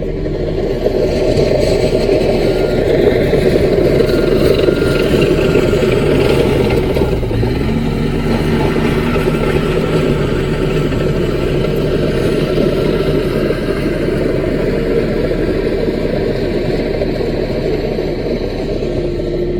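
Engine of a CAT mini bulldozer running steadily under working load, with a brief change in engine note about eight seconds in.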